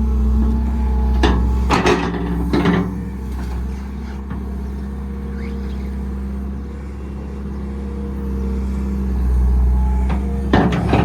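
Tracked digger's diesel engine running steadily, with a few sharp knocks over the first three seconds and a quick run of clanks near the end.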